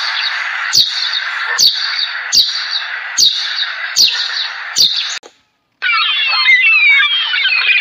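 Many small birds chirping together in a dense chatter. For the first five seconds a sharp, clicking call repeats about once every 0.8 s over it; after a brief silent cut, the chirping resumes as a flock of fast, warbling calls.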